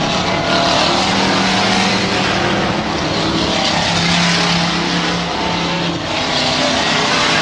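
Several stock truck engines racing on a dirt oval, loud and continuous, with many engine notes overlapping; the sound swells as trucks go by, about a second in and again near the end.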